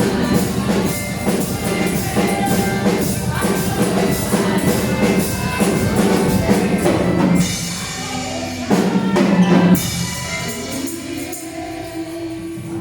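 Gospel praise music with a drum kit and group singing; the drums thin out about halfway through, leaving held sung notes.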